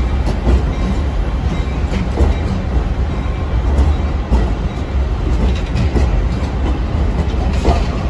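Metra bilevel commuter coaches rolling past: a steady low rumble from wheels and trucks, with irregular clacks of wheels crossing rail joints.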